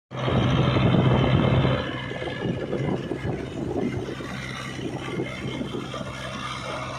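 Kubota tractor's diesel engine running with a steady low hum. It is louder for about the first two seconds, then settles to a lower, even run.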